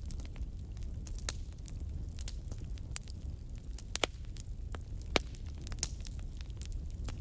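Wood fire in a fireplace crackling, with irregular sharp pops over a steady low rumble of flame; the loudest pops come about four and five seconds in.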